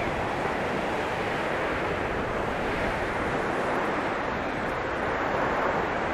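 Blizzard wind blowing steadily, a dense rushing noise with gentle swells and no gaps.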